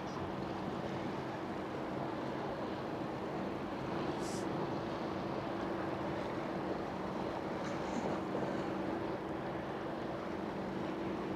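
Boat engine running steadily as a vessel passes, a constant droning hum over a bed of wash and wind noise. A brief hiss about four seconds in.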